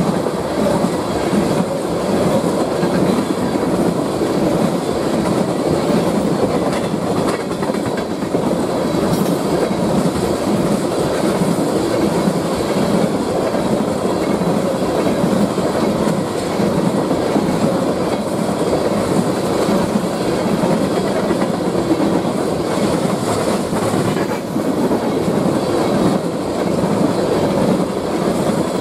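Railroad tank cars of a long freight train rolling steadily past close by: a continuous rumble of steel wheels on the rails.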